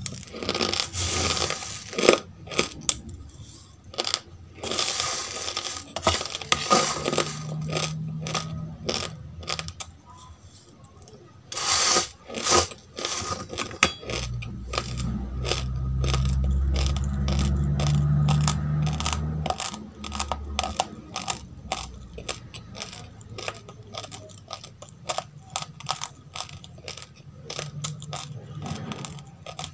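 Close-miked crunching and chewing of dry roasted rice grains: a dense, uneven run of crisp crackles and clicks. A low hum sounds for several seconds in the middle.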